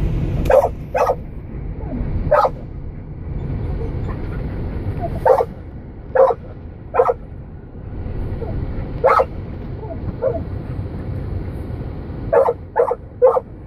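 A dog barking in short single barks, about a dozen at irregular intervals, with three in quick succession near the end. Under the barks runs the steady low rumble of a car driving.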